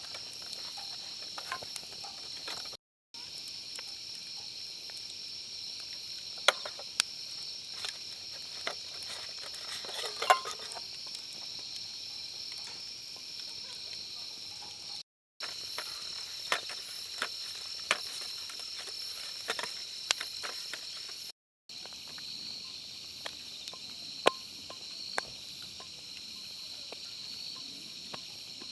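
A steady, high-pitched chorus of insects, with scattered sharp clicks and ticks over it. The sound drops out completely for a moment three times.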